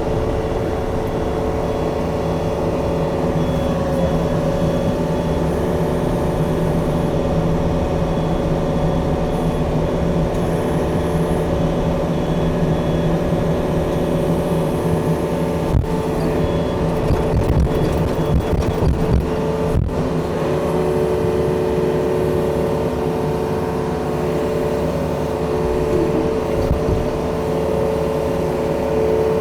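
Yanmar compact tracked machine's diesel engine running steadily under load while pushing dirt, with a rougher, uneven stretch a little past halfway.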